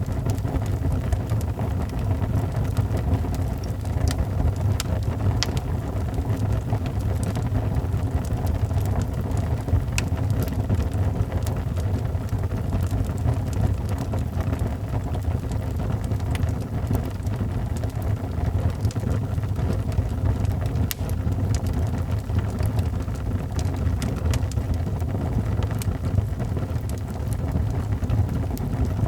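Wood fire in a fireplace crackling, with scattered sharp pops and ticks over a steady low rumble.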